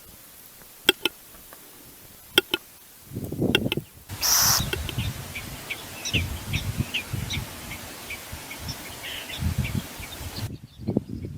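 Bird chirps: many short, high calls over a few seconds, with sharp clicks near the start and low thumps and rumble underneath.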